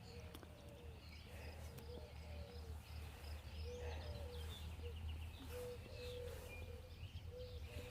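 Wild birds singing and chirping, several short calls and trills overlapping, with a short low note repeating every half second or so. A steady low hum runs underneath.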